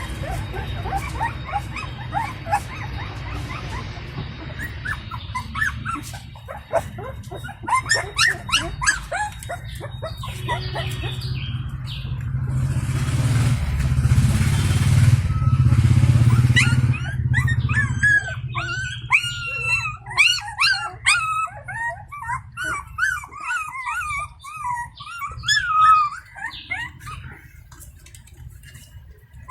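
Indian pariah puppies whimpering and squealing in many short, high cries that come thickest in the second half. A stretch of rustling noise comes about halfway through.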